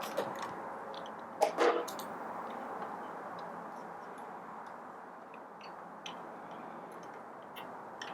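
Light ticks and clicks of a small screw being worked out of a coffee grinder's upper casting and of small parts being handled, with one louder knock about a second and a half in.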